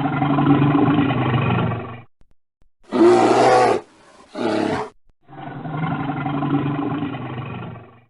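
Animal roaring: a long, low roar of about two seconds, then two short, brighter calls, then another long roar of about two and a half seconds.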